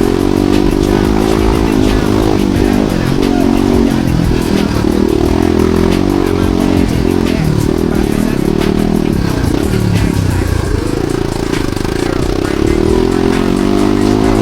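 Off-road dirt bike engine revving up and down, its pitch rising and falling with the throttle, with scattered clattering clicks over it.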